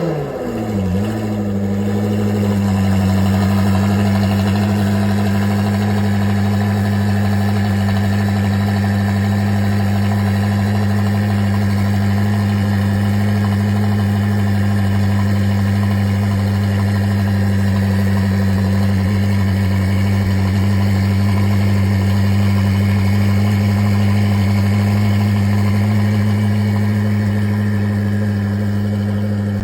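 Performance car engine settling from its start-up rev flare in the first second into a steady, even idle.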